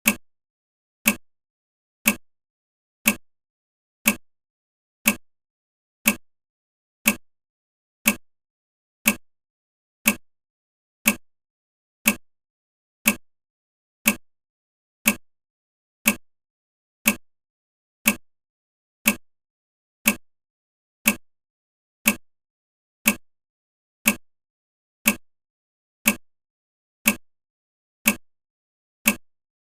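Sharp ticking clicks, exactly one each second and evenly spaced, each dying away quickly into silence.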